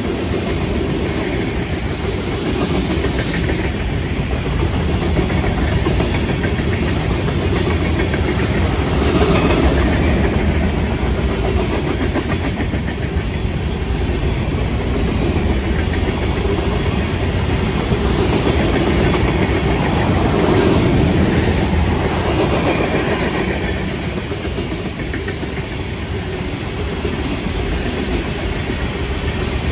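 Freight cars of a Florida East Coast Railway train rolling past, their steel wheels running on the rails in a steady noise that swells twice and eases a little near the end.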